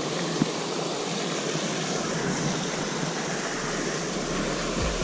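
Steady rush of flowing creek water, an even hiss without pauses.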